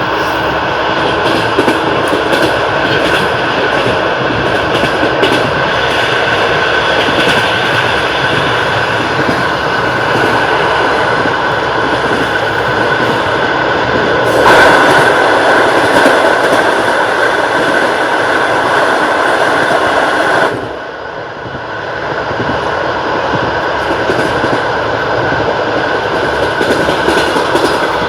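Passenger train running at speed, its wheels clattering over the rail joints over a steady rumble. About halfway through the noise grows louder and fuller for some six seconds, then drops off suddenly and builds back up.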